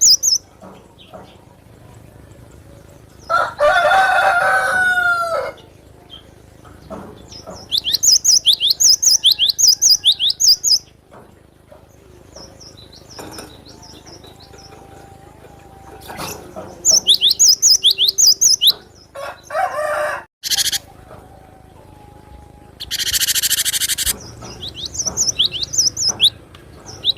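Cinereous tit (gelatik batu) singing: bouts of about three seconds of quickly repeated, ringing high two-note phrases, several times over. A lower, drawn-out call from another bird comes about four seconds in, and a short hiss or rustle about a second long comes shortly before the last bout.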